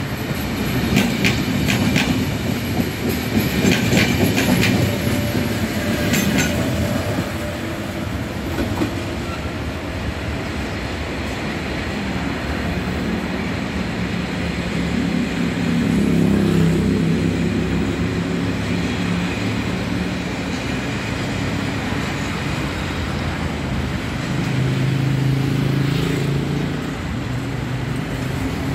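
A Trenitalia double-deck regional train running past close by, its wheels clicking over rail joints with some high squeal. It then gives way to the steady rumble of a freight train rolling on a farther track, with a low hum that swells twice.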